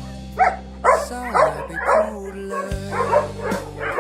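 Dog barking and yipping in short, repeated calls, about two a second, over background music with held low notes.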